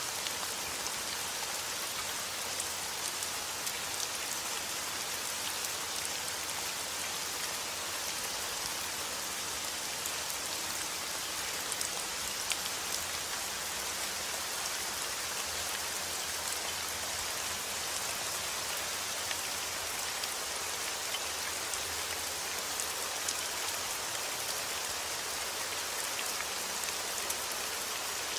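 Heavy rain falling steadily, a dense even hiss of drops with many small sharp drop hits scattered through it.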